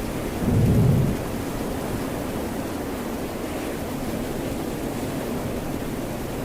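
Steady hiss of rain and ocean surf, with one short, loud, low rumble about half a second in.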